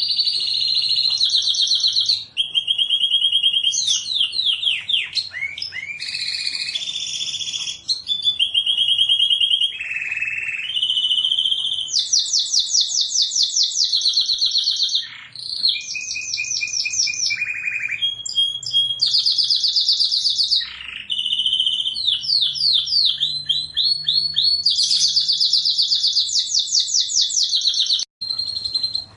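Domestic canary singing a long, nearly unbroken song of fast trills and rapid repeated note series, high-pitched, with sweeping notes between the rolls and only brief breaks.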